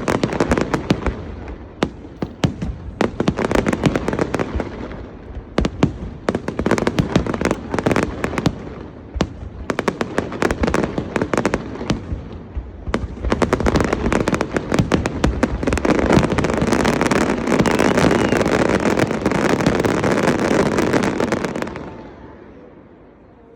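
Aerial fireworks display: a rapid, dense barrage of bangs and crackling that thickens into an almost continuous roll of explosions in its last third, then stops abruptly near the end.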